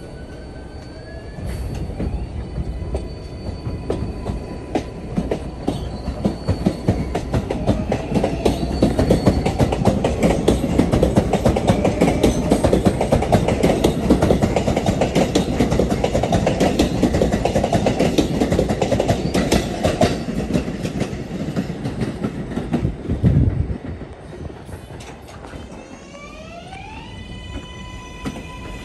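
R142A subway train pulling out, its traction motors whining up in a rising glide, then running past with a loud rail rumble and clacking wheels that builds and then fades away. Near the end another train's motors whine up in a new rising glide.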